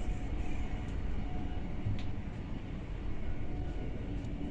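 Running noise inside a moving Hull Trains Class 802 train: a steady low rumble from the wheels and running gear. A single sharp click comes about two seconds in.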